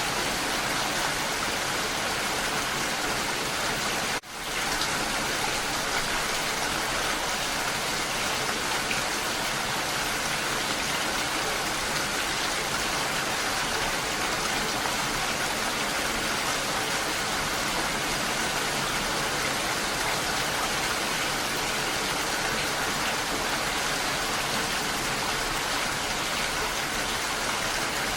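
Steady rain falling, an even hiss with no let-up. It drops out abruptly for a split second about four seconds in and then resumes.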